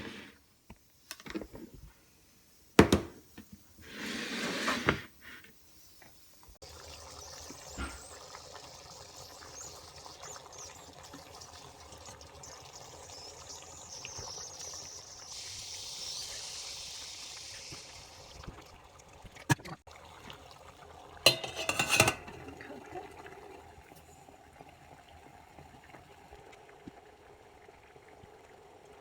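Kitchen cooking sounds: a few clinks and knocks of pots and dishes, then a steady hiss for about ten seconds, and a short clatter of dishes about twenty-one seconds in.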